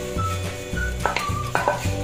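Background music with a steady bass line, over a wooden spatula scraping and tapping against a bowl as blood is scraped out into a frying pan; a few sharp clicks come in about a second in.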